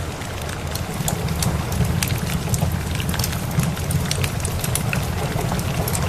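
Wood fire crackling with many sharp pops over steady rain, with a constant low rumble underneath.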